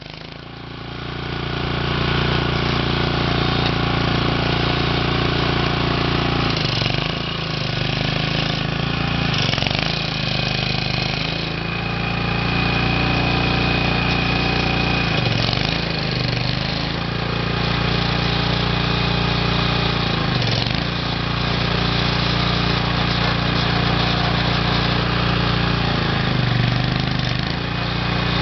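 Small engine of a hand-made mini tractor running steadily, its pitch dipping and recovering briefly several times as the throttle or load changes.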